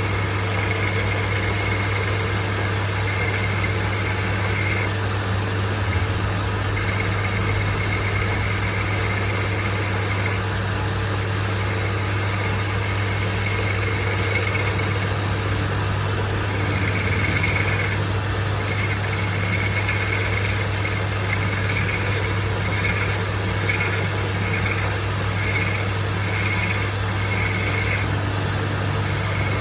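Metal-working lathe running with a steady low hum and a high whine that comes and goes, breaking into short regular pulses about once a second in the second half.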